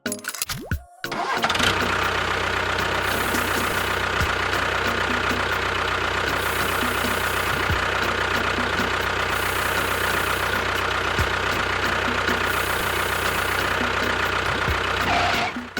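A small motor running steadily with a constant whine over a low hum, starting about a second in and stopping abruptly near the end.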